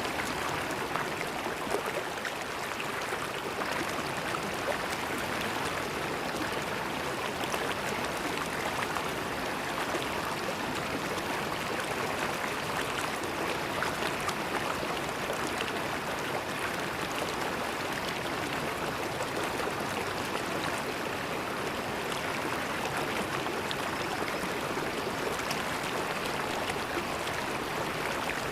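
River water flowing and gurgling in a steady rush, with fine splashing flecks throughout.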